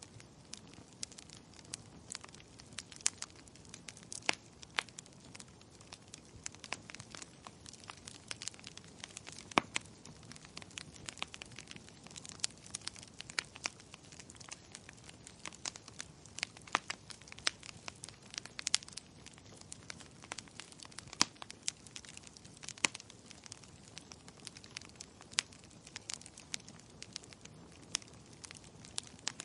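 Wood fire crackling: irregular sharp pops and snaps, several a second with a few louder ones, over a steady low hiss of burning.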